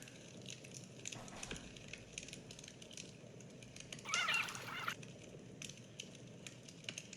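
A bird calls once, about a second long, about four seconds in, over faint scattered clicks.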